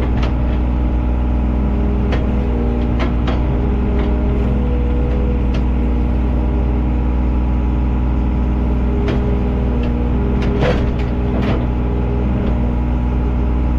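Heavy machine's engine running steadily at high idle, heard from inside the cab, with a few scattered knocks and clanks.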